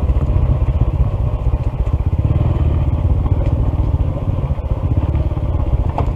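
Honda CT125's single-cylinder engine running at low speed, its firing pulses a steady rapid putter. The owner puts the engine's trouble down to a faulty piston and a misaligned valve.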